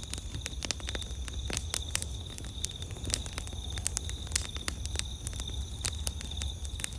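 Wood campfire crackling, with irregular sharp snaps and pops, some louder than others. Under it runs a steady, high-pitched insect trill.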